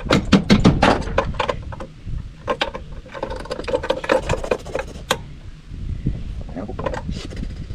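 Quick, irregular metallic clicks and knocks of plumbing fittings being handled and screwed together, densest in the first second or so and again in the middle.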